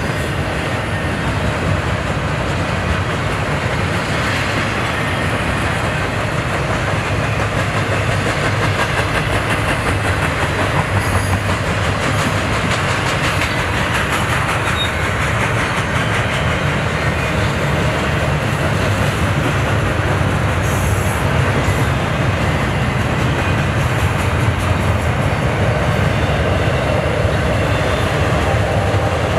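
Double-stack container cars of a freight train rolling past close by: a steady rumble of steel wheels on rail with clickety-clack over the rail joints.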